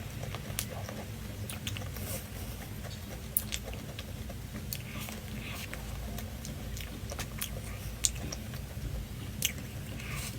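Eating: irregular crunchy bites and chewing clicks over a steady low hum.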